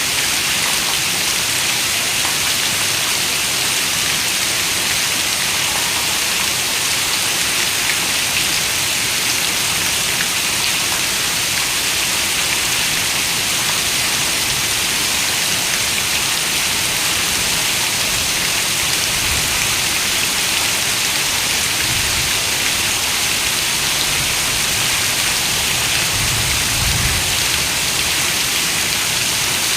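Heavy rain falling on a window: a steady, even hiss of dense raindrops, with a few faint low rumbles in the second half.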